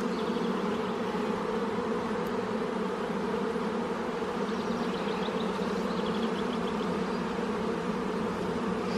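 A honeybee colony in an opened hive buzzing steadily, a low, even hum with no letup.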